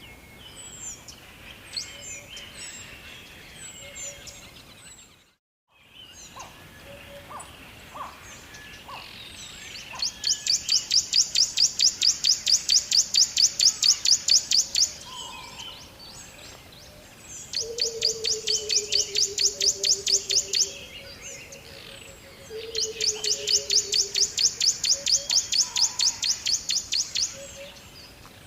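Birds chirping, with a loud, fast trill of evenly repeated notes that comes in three bouts of a few seconds each. A low falling tone sounds under the second and third bouts.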